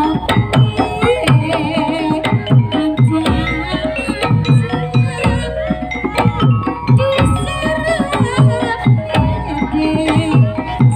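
Live Javanese gamelan accompaniment for a barongan dance: kendang hand drums playing quick, dense strokes over sustained metallophone and gong tones, with a wavering high melody line above.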